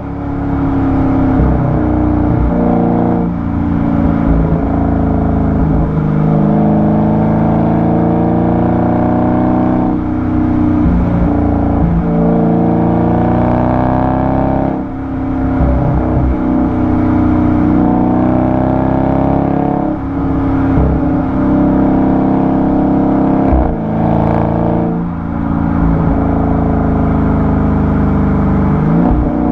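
Dodge Charger 392's 6.4-litre HEMI V8 exhaust heard close at the tailpipe while driving. The engine note climbs under acceleration and drops back at each gear change, several times over.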